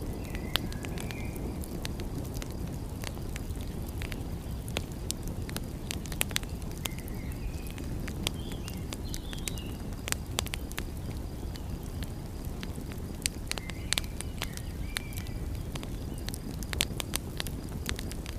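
Wood fire crackling, with frequent sharp irregular pops over a steady low rumble. A few faint short high chirps come now and then.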